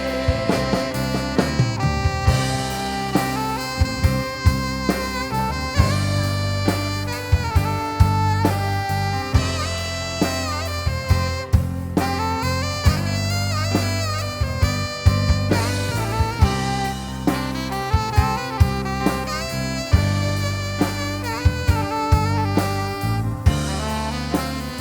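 Instrumental break of a live worship song: the band plays a lead melody over drums and a steady bass, with no singing.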